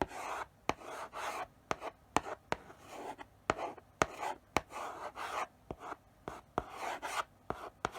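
Chalk writing slowly on a blackboard: short scratchy strokes broken by sharp taps as the chalk meets the board, roughly one or two taps a second.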